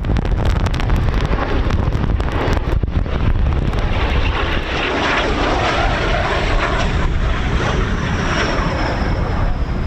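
Jet aircraft engine noise that swells about four seconds in, heard under heavy wind buffeting on the microphone.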